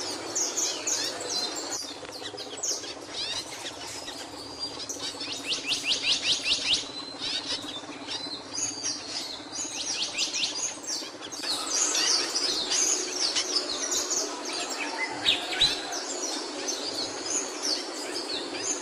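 Capuchino songbird singing: a run of fast, high chirps and whistles, with a rapid trill of evenly repeated notes about five seconds in, over steady background noise.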